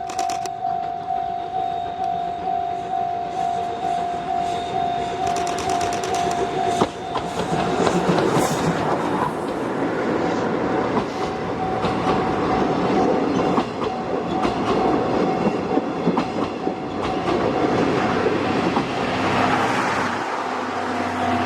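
A level-crossing alarm rings in a steady pulse, about twice a second. About seven seconds in, the SL Paleo Express steam train (C58 363 locomotive with its coaches) arrives and passes close by, its wheels clattering over the rail joints, loud for over ten seconds while the alarm keeps ringing underneath.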